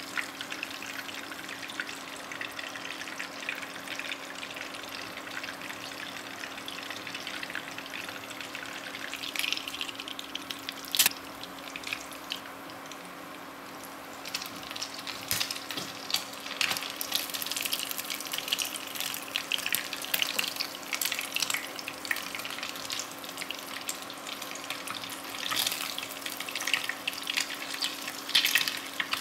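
Oil sizzling and crackling around spring-roll-wrapped martabak telur shallow-frying in a nonstick pan. One sharp click about 11 seconds in; the sizzle dies down briefly and comes back livelier from about halfway, once a fresh batch is frying.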